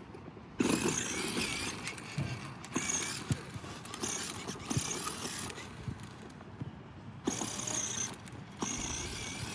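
Toddler's ride-on toy motorbike rolling over the ground with a rough, clicky rattle. It stops for about a second partway through, then starts again.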